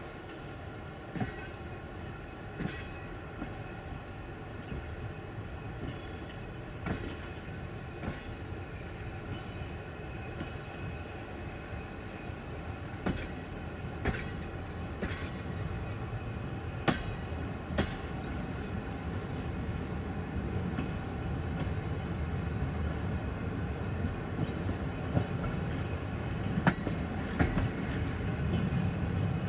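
Passenger train running on the track, its wheels knocking sharply and irregularly over rail joints and points. A low rumble grows steadily louder toward the end.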